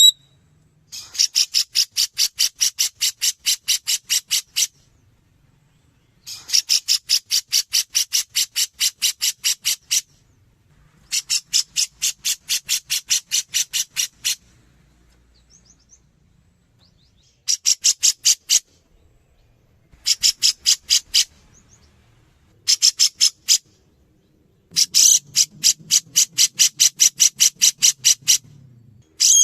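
Grey-cheeked bulbul (cucak jenggot) in a fast rattling chatter: runs of rapid, evenly repeated high notes, about six a second, in seven bursts of one to four seconds with short pauses between them.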